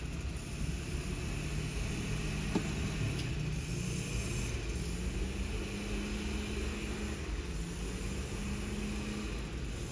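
Scania cardboard recycling truck's diesel engine running steadily, a low rumble with a steady hum, with one short sharp click about two and a half seconds in.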